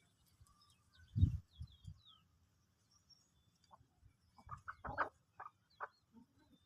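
Desi chickens clucking: a quick run of short clucks near the end, after a low thump about a second in.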